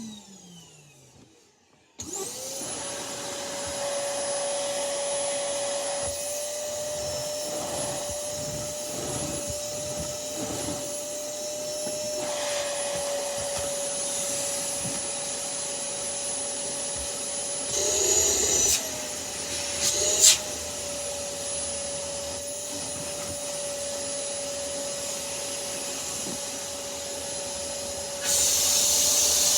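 Vacuum cleaner motor switched on about two seconds in. It runs steadily with a high whine, its pitch rises briefly twice past the middle, and a louder rushing hiss joins near the end.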